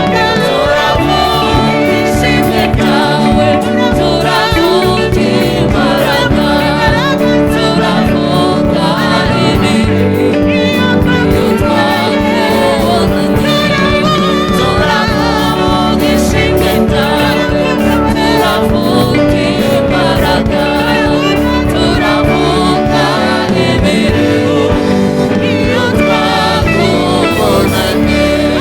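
Gospel praise song sung by a group of voices with instrumental accompaniment and a steady beat.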